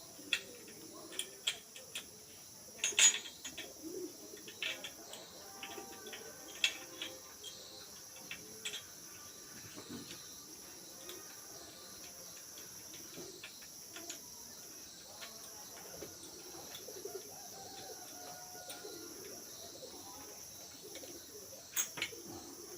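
Light metallic clicks and taps of motorcycle gearbox parts being set into the engine's lower crankcase half, frequent in the first nine seconds with the loudest about three seconds in, and a few more near the end. A steady high insect trill runs underneath.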